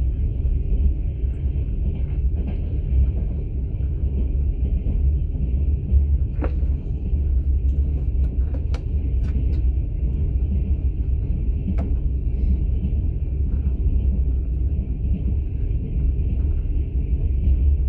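Steady deep rumble of a moving passenger train heard from inside an open-plan sleeper carriage, with a few short sharp clicks or knocks about six to twelve seconds in.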